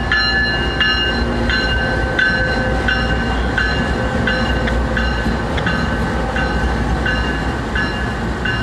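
Freight train running past with a steady low rumble, under a metallic ringing strike that repeats about twice a second.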